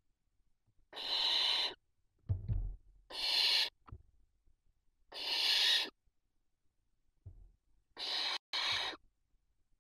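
Barn owl chicks giving long, rasping hiss calls (the 'snoring' begging call), repeated about every two seconds, with a quicker pair of shorter hisses near the end. A low thump comes about two and a half seconds in.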